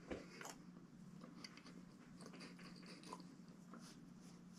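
Faint chewing and soft mouth clicks from a person eating a sandwich, with one sharp tick just after the start, over a low steady hum.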